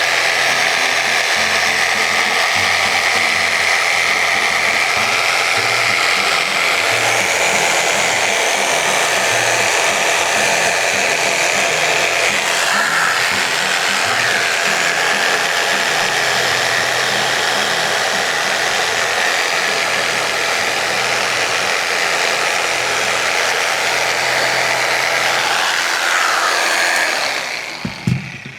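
Electric saw cutting through seat cushion foam, running steadily with its pitch dipping briefly twice, then stopping near the end.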